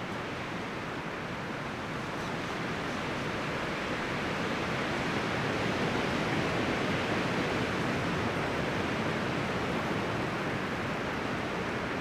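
Wind rustling through the leaves and branches of forest trees: a steady hiss that swells gently around the middle and eases a little toward the end.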